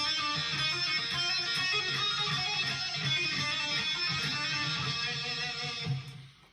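Electric guitar playing lead phrases of a rock guitar solo, with quick note changes, stopping about six seconds in.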